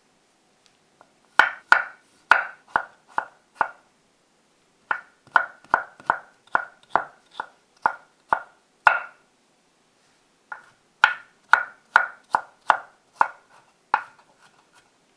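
Kitchen knife chopping on a cutting board: three runs of steady, sharp strokes, about two a second, with short gaps between the runs.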